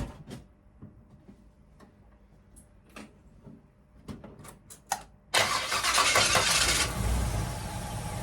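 A few faint clicks and knocks, then about five seconds in a car engine fed by a freshly rebuilt Edelbrock carburettor starts with a sudden loud burst. It settles after about a second and a half to a steady idle. This is its first start after being flooded and dried out.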